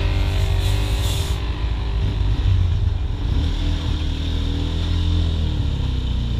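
200cc motorcycle engine running at low speed in traffic, with a large truck's engine and tyres close alongside; the engine pitch rises and falls briefly about five seconds in.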